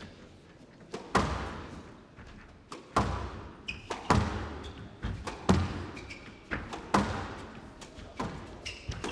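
Squash rally: a rubber squash ball struck by rackets and smacking off the court walls, a sharp crack roughly every half second to second, each ringing on in the hall, with short high squeaks of court shoes between shots.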